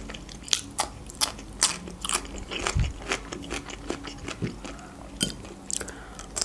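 Raw cucumber being bitten and chewed close to the microphone: crisp crunches about twice a second.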